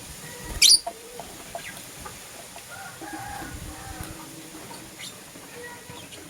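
Lutino lovebirds chirping: one loud, shrill chirp about half a second in, then softer short chirps and chatter.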